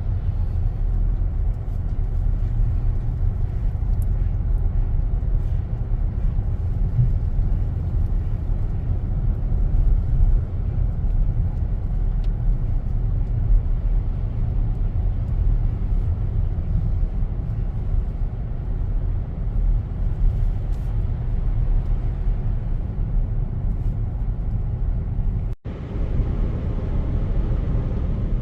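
Steady low rumble of road and engine noise inside a moving car's cabin, with a momentary cut in the sound near the end.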